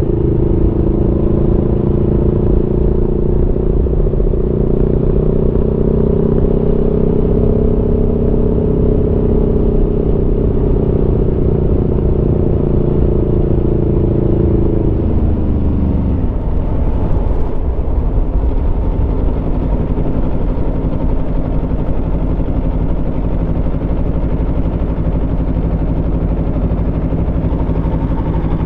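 Aprilia Tuono V4 motorcycle's V4 engine running at steady revs under way, then the revs drop away sharply about halfway through and it carries on as a low, rough rumble at low revs.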